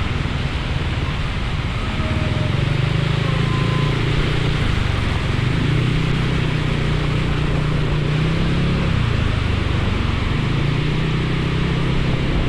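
Motorcycle engine running under way, its note easing off about nine seconds in and then picking up again. Heavy rush of wind and rain noise over the camera throughout.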